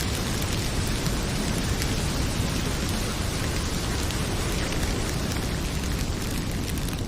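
Heavy rain pouring steadily with a low rumble underneath, mixed with a fireplace crackling in faint, scattered ticks.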